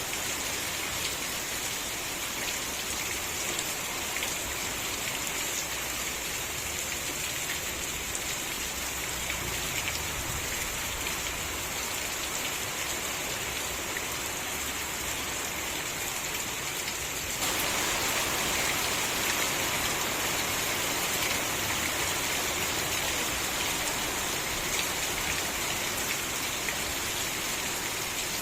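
Steady rain falling, an even hiss with scattered drop ticks; about two-thirds of the way through it abruptly gets a little louder and brighter.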